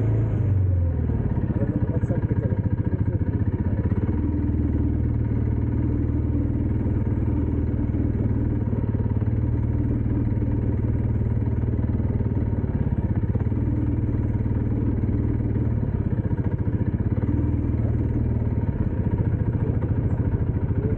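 Dirt bike engine running at a steady speed, its note holding nearly level with only small shifts in pitch.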